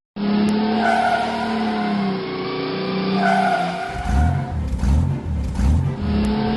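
Animated race-car engine sound effects: a steady engine drone with tyre noise, then a deeper pulsing engine rumble about four seconds in.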